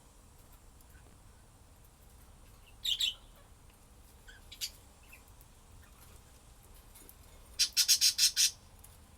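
Pet budgerigar calling. A short squawk comes about three seconds in, then a brief chirp, and near the end a quick run of about six sharp squawks, the loudest of them.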